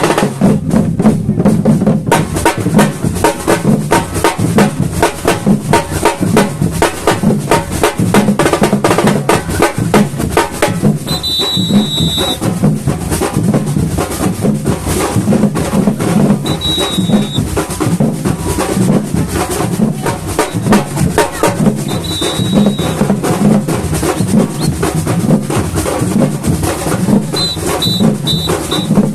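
Samba batucada drum ensemble playing a fast, steady groove, with deep bass drums pulsing under dense snare and hand percussion. Short high whistle blasts cut in a few times, the last as several quick blasts near the end.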